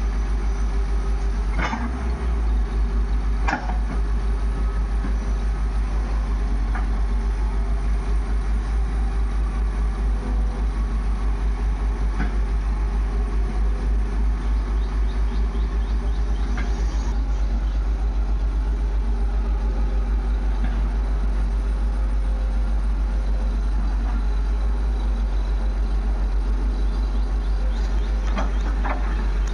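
Heavy diesel engine running steadily with an even low pulsing rumble, with a few short knocks scattered through.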